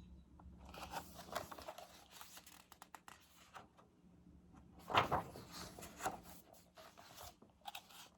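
Paper rustling and crinkling as the pages of a picture book are handled and turned, with a louder swish of paper about five seconds in.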